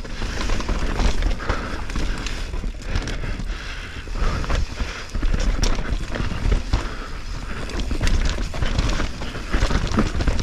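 Wind rushing over an action camera's microphone and the rattle and knocks of a mountain bike running fast down a rough, soft dirt trail, with many small impacts from bumps and drops.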